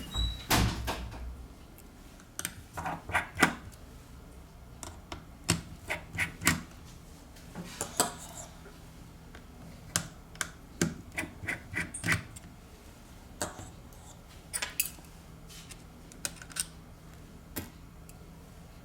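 Irregular sharp little clicks and taps of small hand tools against a tablet's internals, the sound of working loose connectors and parts during disassembly.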